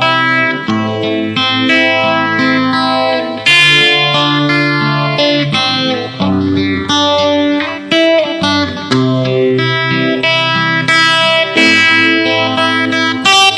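Instrumental break in a pop ballad: an electric guitar with effects plays a melody of sustained notes over the backing music.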